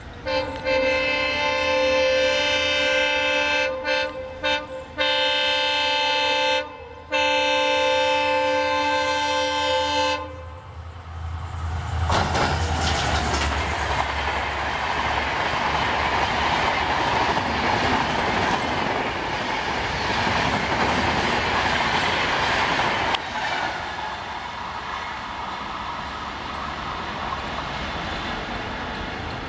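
Diesel locomotive's multi-tone air horn sounding for about ten seconds, broken by short gaps into several blasts. Then an express train rushes past at about 110 km/h, with the loud roar of wheels and coaches, easing off after a sudden drop in level.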